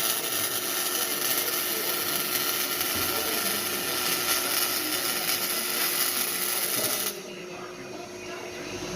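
Shop metalworking on exhaust piping: a steady, loud hissing noise that cuts off suddenly about seven seconds in.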